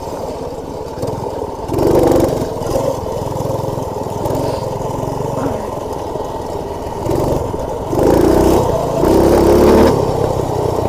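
Minibike's Predator single-cylinder engine running under way, the throttle opening up about two seconds in and again near the end. Heard through a microphone inside the rider's helmet.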